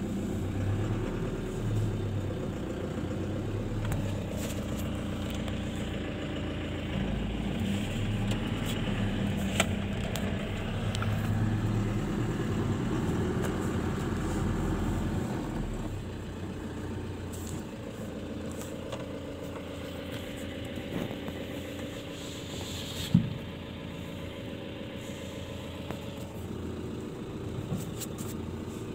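Engine of the vehicle being ridden in, heard from inside the cabin as a steady hum while driving, dropping noticeably quieter about halfway through. A single sharp knock sounds about two thirds of the way in.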